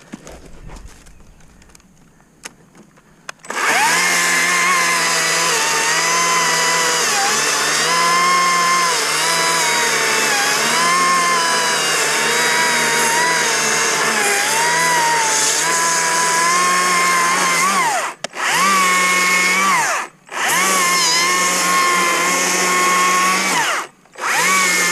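Stihl MSA 60 C battery chainsaw running, a steady electric motor whine that starts about three and a half seconds in. Its pitch sags and recovers again and again as the chain bites into wood. Near the end the trigger is let off and squeezed again, giving three shorter runs.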